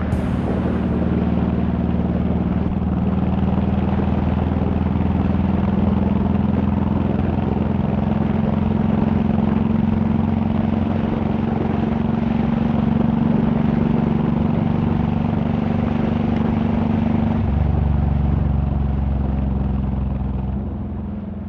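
Honda VTX1800's V-twin engine running steadily under way, its exhaust note shifting about three-quarters of the way through. The sound fades out near the end.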